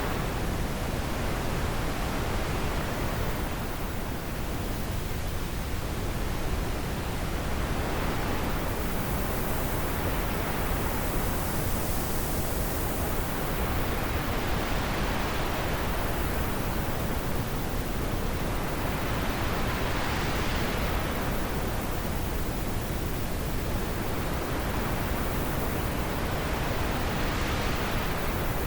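Wind blowing steadily, its hiss swelling and easing in slow gusts every few seconds.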